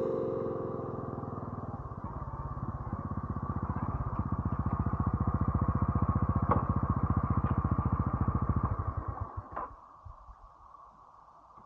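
Motorcycle engine running with a fast, even beat, growing louder, then dying away about nine seconds in. A click comes just after it stops, then only a faint hum.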